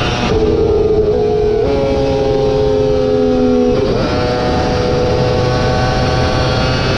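Racing superbike engine running hard, its note shifting abruptly a few times in the first four seconds (drops and jumps typical of gear changes) and sagging slowly in between, over a steady rush of wind and road noise.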